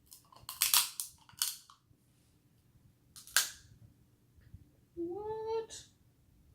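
Sharp cracking of snow crab leg shells being broken open: a cluster of cracks in the first second and a half and one more a little over three seconds in. A short spoken "What?" comes near the end.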